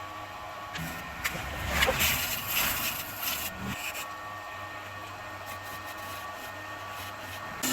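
An electric woodworking machine's motor running with a steady hum. For the first three and a half seconds or so a tool bites into wood in rough scraping bursts, then only the motor hum goes on.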